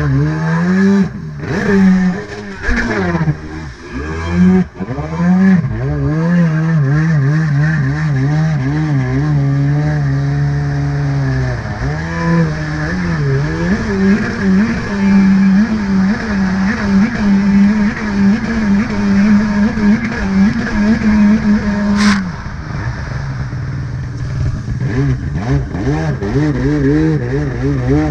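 A stand-up jet ski's carbureted two-stroke engine being ridden, its revs rising and falling constantly. About three-quarters of the way through, the revs drop off suddenly, then climb again near the end.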